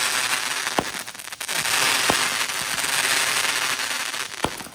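Consumer firework burning on the ground: a steady crackling hiss with three short, sharp pops.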